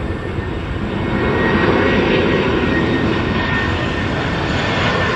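Jet airliner engines running close by, a dense rushing noise with a thin high whine that swells louder about a second in and then holds.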